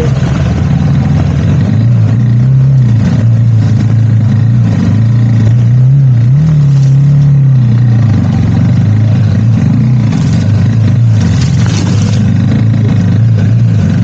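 KTM motorcycle engine running while riding, its pitch rising and falling with the throttle, swelling about two seconds in and again around six to seven seconds in. A brief rush of noise comes near the end.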